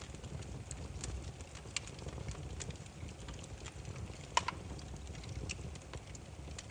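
Burning firewood crackling: irregular sharp pops and snaps over a steady low rumble of the fire, the loudest a quick double pop about four and a half seconds in.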